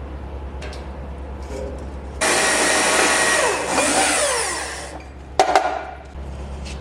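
A high-speed power tool runs for about three seconds, its pitch shifting, then winds down; a short sharp clatter follows. A steady low hum sits underneath.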